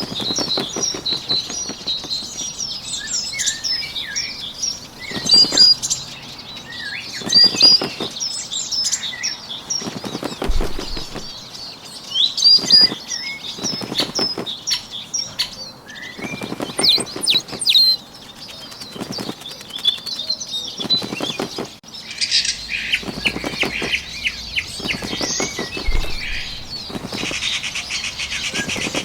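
Bird wing-flapping sound effect in repeated bursts of rapid fluttering, each lasting a second or two, over continuous high chirping of small songbirds.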